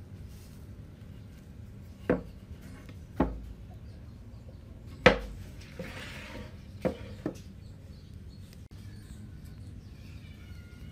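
Five sharp knocks on wood at uneven intervals, typical of hand woodworking such as tapping with a mallet; the third, about five seconds in, is the loudest and is followed by a short scraping hiss.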